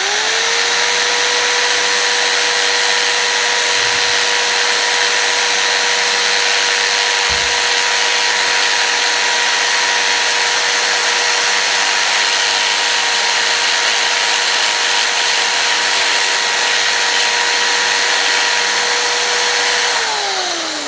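Electric drill with a bit running at a steady speed for about twenty seconds while enlarging a hole in a car part. It spins up at the start and winds down near the end.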